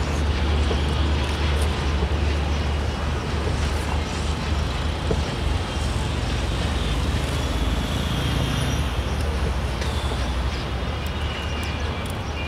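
Passenger train rolling along the track: a steady low rumble of wheels on rails.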